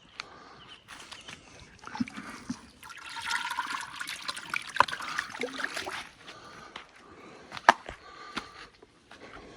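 Water running for about three seconds, with a few sharp clicks and knocks around it, one louder knock near the end.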